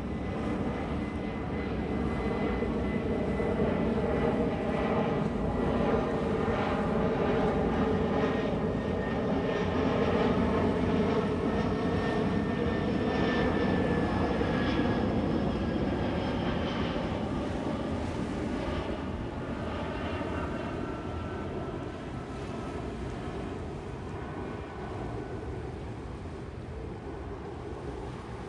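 Fixed-wing aircraft engines passing by: the engine noise grows louder to a peak about midway, then fades, with a whining tone that slowly drops in pitch as the plane goes past.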